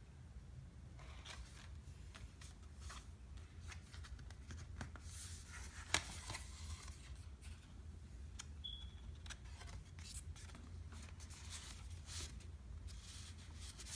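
Faint rustling and scattered clicks of paper and a book being handled, with one sharper click about six seconds in, over a steady low hum.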